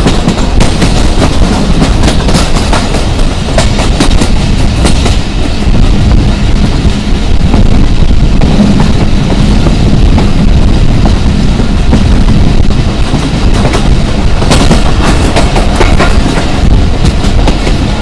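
Passenger train coach running at speed, heard from its open door: a loud, steady rumble of wheels on the track with many sharp clacks, which come thickest near the end.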